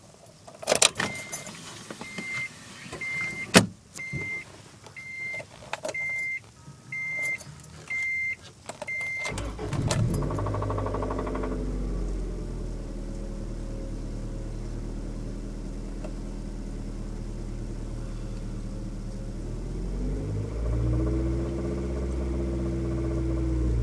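Car dashboard chime beeping about once a second among key and interior clicks, then the engine cranks and starts about nine seconds in and idles steadily, with one brief rev near the end. The owner suspects a noise in this engine is rod knock.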